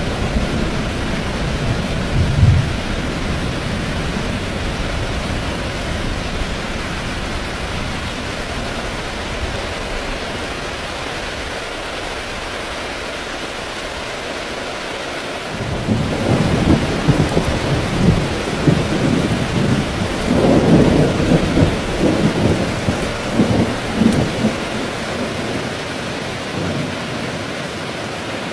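Heavy rain falling steadily with thunder: a low rumble, with one sharp crack a couple of seconds in, fades away over the first half, then a new peal breaks in about halfway through, rumbling and crackling loudest a few seconds later before dying away near the end.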